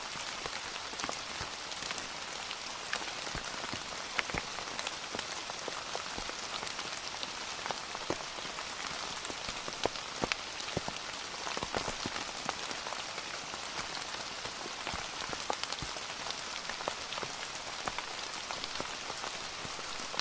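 Steady rain falling on a hard surface, a constant hiss with many distinct drops ticking and splatting close by.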